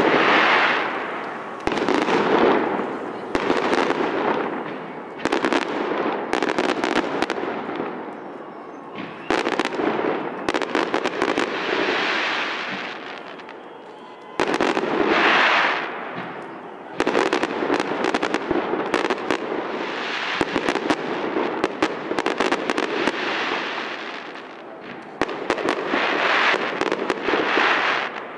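Aerial fireworks salute: shells bursting one after another every few seconds, each burst followed by a dense crackling that dies away.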